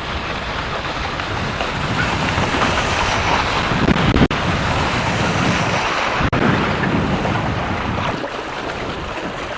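Wind buffeting the microphone over the rush and slosh of water around a sailboat. It swells louder through the middle and cuts out for an instant twice.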